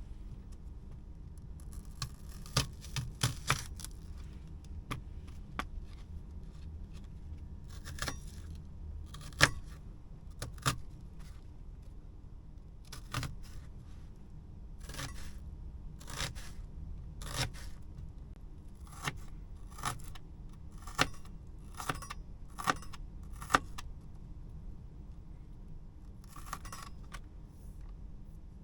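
Irregular light clinks, taps and clatters of small hard objects being handled, some a little louder than others, over a steady low hum.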